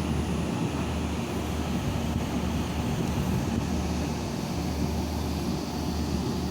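Steady, unbroken low engine drone with a rushing hiss over it.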